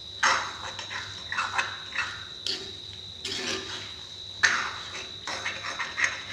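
A spatula stirring and scraping Maggi noodles and chicken around a kadai, with a scraping stroke about once a second.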